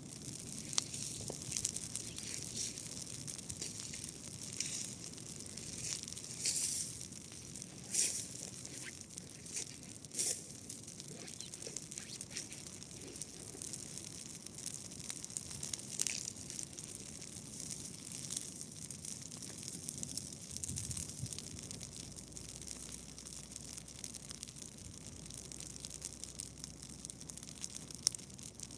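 Dry grass crackling steadily, with sharp snaps every few seconds.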